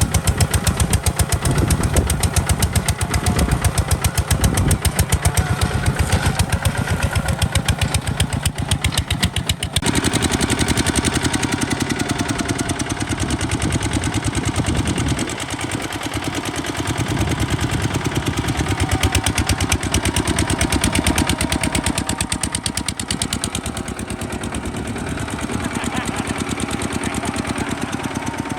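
Kubota RT140 DI single-cylinder diesel engine running steadily with a rapid, even chugging. Its sound shifts about a third of the way in and again around the middle.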